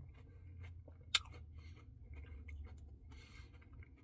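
Close-miked chewing of a Turtle Pecan Cluster Blizzard: soft wet mouth clicks, one sharper click about a second in, and a short hiss a little after three seconds.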